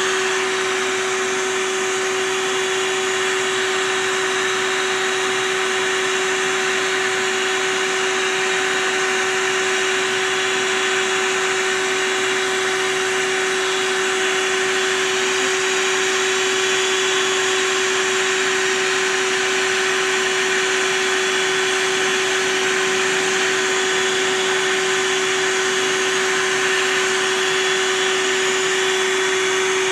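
A vacuum motor running steadily with a constant high hum, unchanging throughout.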